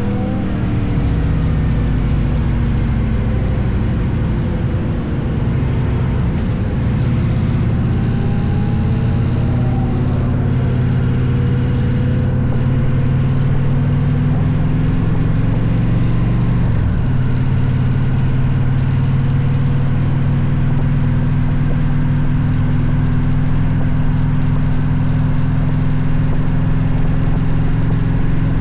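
Motorcycle engine running steadily at cruising speed, with a deep, even note. In the first ten seconds or so other tones rise and fall over it, then the sound settles into a constant drone.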